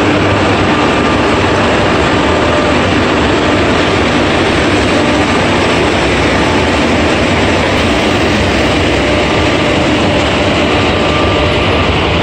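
WAP-4 electric locomotive pulling out slowly past at close range with a loud, steady drone, followed by its passenger coaches rolling by.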